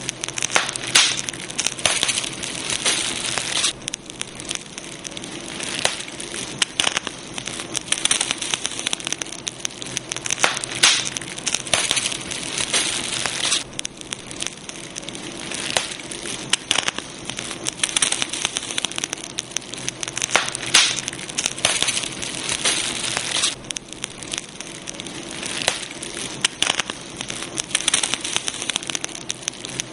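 Campfire crackling continuously with frequent sharp pops and snaps, swelling into stretches of denser, louder crackling several times.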